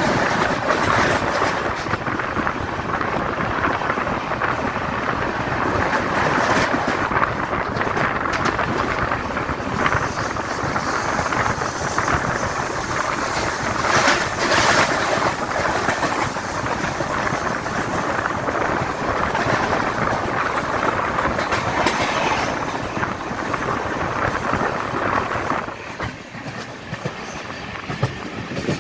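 Swaraj Express passenger train running, with a steady rush of wheel and rail noise. A thin, high squeal lasts several seconds in the middle, and the noise drops for a moment near the end.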